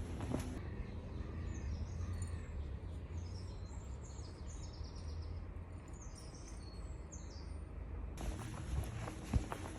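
Birds chirping in a quick series of short high notes over a steady low rumble of outdoor background noise.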